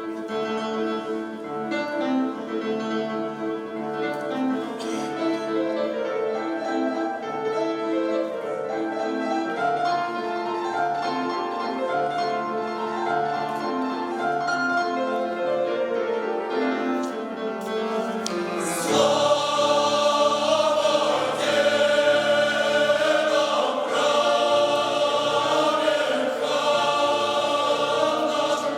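Choir singing a slow Russian choral song with instrumental accompaniment. About two-thirds of the way through, the full choir comes in loudly.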